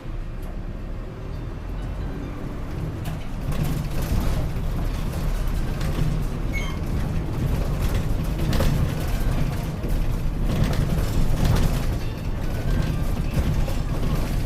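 Interior running noise of a Gifu Bus city bus on the move: a steady low engine-and-road rumble that grows louder about four seconds in as the bus picks up speed. A faint short high beep sounds about six and a half seconds in.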